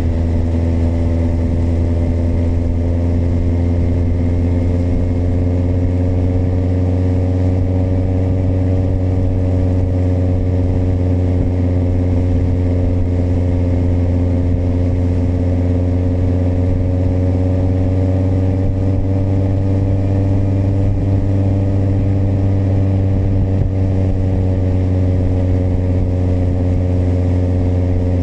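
Kawasaki motorcycle engine running steadily at cruising speed, its pitch rising a little and easing back about two-thirds of the way through.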